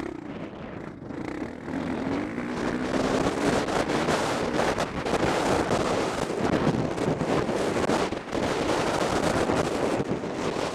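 Motocross bike engine heard from the rider's helmet camera, revving up and running hard under throttle with wind rush on the microphone. It grows louder about two seconds in and drops off briefly near the end.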